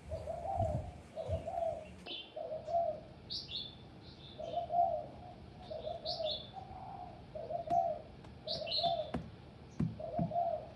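Birds calling: a low cooing call repeated about once a second, with higher short chirps in between. A few soft thumps come near the start and again near the end.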